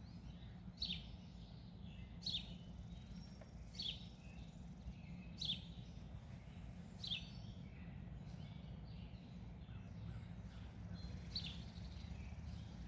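A songbird repeating a short, high, downslurred call about every second and a half, over a steady low background hum.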